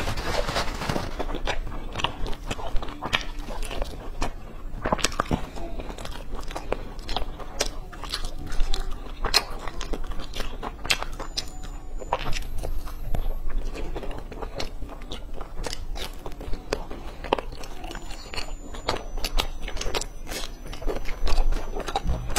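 A person biting and chewing crispy fried food close to a clip-on microphone: crunching bites and wet chewing with many sharp mouth clicks throughout.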